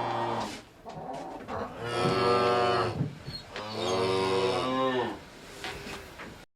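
A cow mooing: the end of one moo, then two long moos of about a second each.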